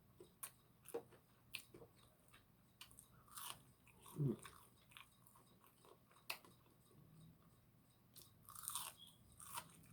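Faint, close-up chewing and crunching of crisp deep-fried food, with scattered short crackles and clicks.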